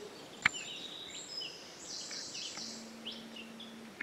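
Woodland birds chirping and calling at several pitches, with one sharp click about half a second in and a faint low hum for about a second near the end.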